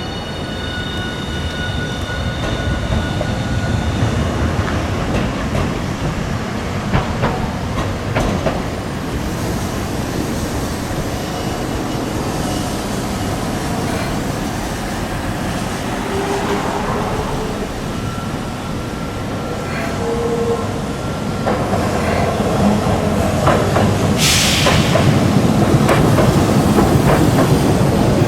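Hiroshima Electric Railway streetcar running on its track, a steady rumble with wheel clicks over the rails and faint motor tones. A short hiss comes about 24 seconds in.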